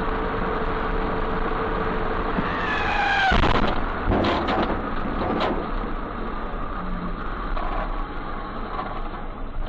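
Road and engine noise of a car recorded by a dash cam, with a brief rising squeal about two and a half seconds in that cuts off sharply, followed by a few sharp knocks.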